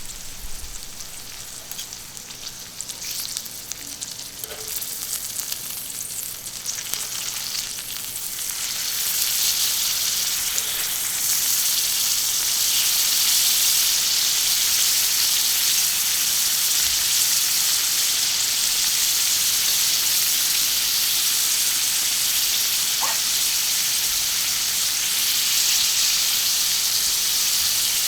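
Food sizzling and crackling on a thick iron griddle plate over charcoal. The sizzle swells to a louder steady hiss about a third of the way in.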